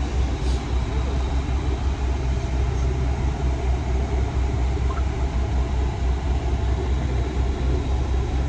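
A vehicle engine idling, a steady low rumble with an even throb.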